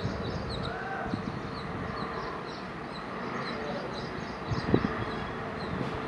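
Birds chirping in quick, repeated high notes over a steady low rumble, with a short thump about three-quarters of the way through.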